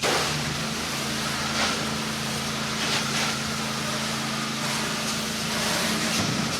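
Pressure washer spray hitting the house wall: a steady hiss that starts suddenly as the trigger is pulled. A steady engine hum from the pressure washer runs underneath.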